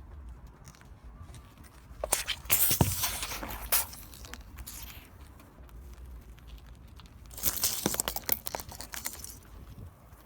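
A car tyre rolling over and crushing brittle objects: two bouts of cracking and crunching with sharp snaps, about five seconds apart, over a low steady rumble.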